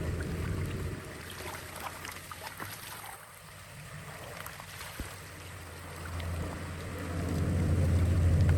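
Running water with wind buffeting the microphone. Scattered small clicks and splashes sound in the first half, and a low rumble swells loud near the end.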